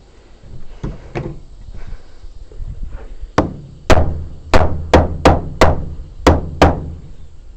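Hammer blows on wood: a couple of light taps, then a run of eight sharp, loud strikes at about two to three a second.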